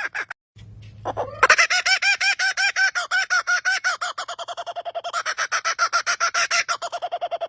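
A bird's laughter-like call: a fast run of repeated pitched notes, resuming about a second and a half in after a brief break and carrying on steadily.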